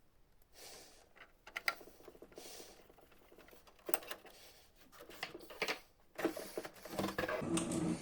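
Hands handling plastic printer parts: irregular clicks, taps and rattles, busier and louder over the last two seconds.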